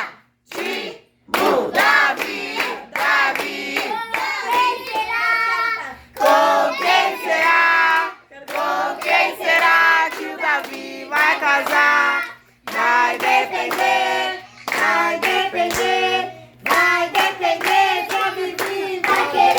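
A group of party guests, children among them, singing a birthday song together in phrases with short pauses, with hands clapping along.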